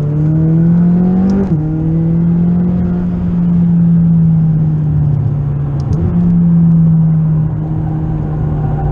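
McLaren 540C's twin-turbo V8, tuned to about 650 hp, heard from inside the cabin at speed on track. Revs climb for about a second and a half, drop sharply at an upshift, then hold nearly steady under load, with a brief dip around six seconds in.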